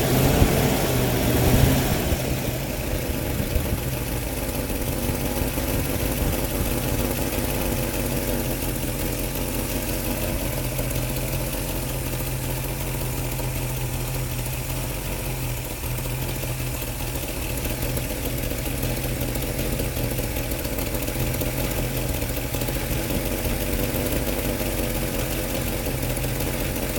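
Vehicle engine running a little louder for about the first two seconds, then settling to a steady idle. It has an exhaust leak, which the owner takes for gases escaping at the flange seal where the exhaust manifold meets the pipe.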